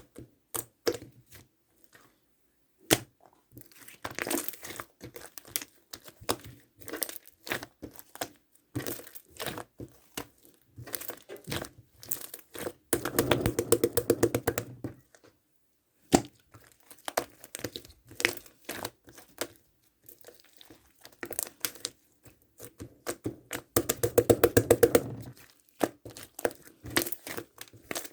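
Cloud slime being stretched, squeezed and pressed by hand, giving irregular crackling, popping clicks and tearing sounds. About halfway through and again near the end come spells of fast, dense clicking.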